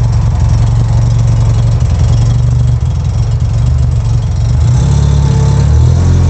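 Mazda RX-7's 13B twin-rotor rotary engine, turbocharged with a Garrett GT4088R, idling on its first start-up with a fast, pulsing rotary idle. The engine note shifts slightly about five seconds in.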